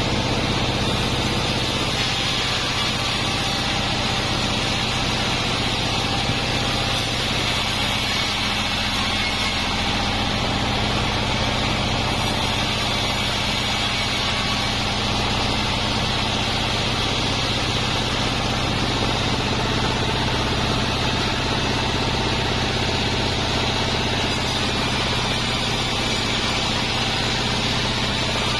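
Sawmill band saw running with a steady mechanical hum and an even high hiss.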